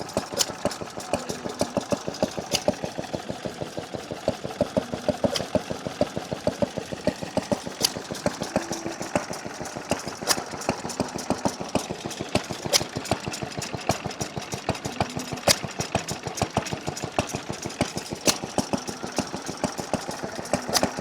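Vertical Callan Lewis stationary engine running steadily with a fast, even mechanical beat. A sharp, louder crack comes about every two and a half seconds.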